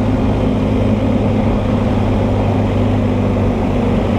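BMW R1250 GS Adventure's boxer-twin engine running at a steady cruising speed, an even drone heard with wind and road noise.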